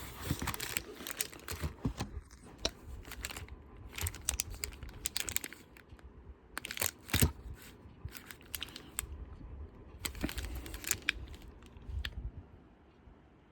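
Packaging being torn open and crinkled by hand, with irregular rustles, crackles and small knocks as the contents are handled, and one sharper knock about seven seconds in.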